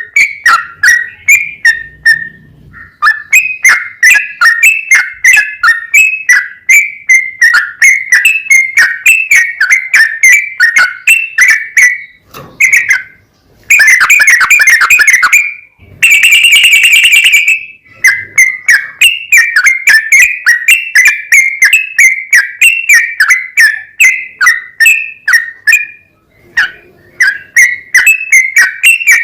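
Yellow-vented bulbul singing a long, unbroken song of short whistled notes in quick succession, with two brief pauses. Just past the middle come two harsher, louder stretches of about a second and a half each.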